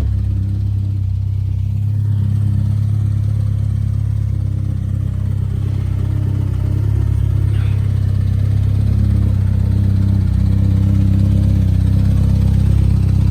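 Mitsubishi Lancer Evolution X's 2.0-litre turbocharged four-cylinder engine idling steadily, with a deep, even exhaust note.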